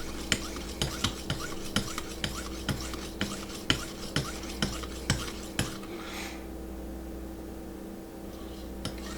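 Vipersharp guided sharpener's abrasive paddle stroked back and forth along a knife edge, about two strokes a second, each marked by a light click, polishing the edge. The strokes stop about six seconds in.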